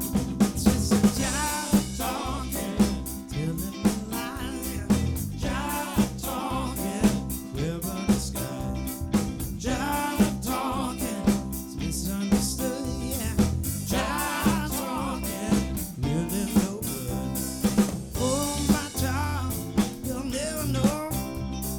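Live soul band playing an instrumental passage: drum kit with snare and bass drum keeping a steady beat under bass and melodic instruments, with some singing.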